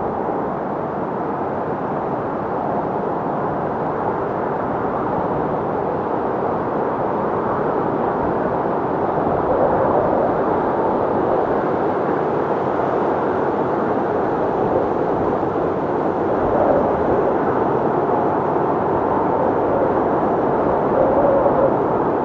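Wind sound effect: a steady, rushing wind that swells gently now and then, with a faint whistling tone near the end.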